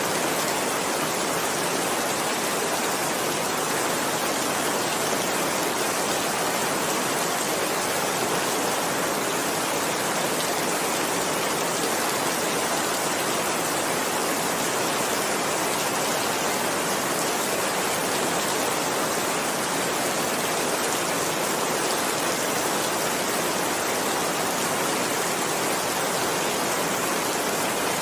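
Steady heavy rain: an even, unbroken hiss of downpour with no distinct drops or thunder standing out.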